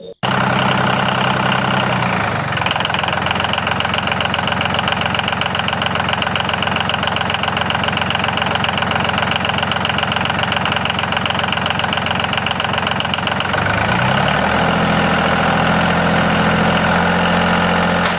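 An engine running at idle with an even, rapid knock. Its pitch drops about two seconds in and comes back up near the end.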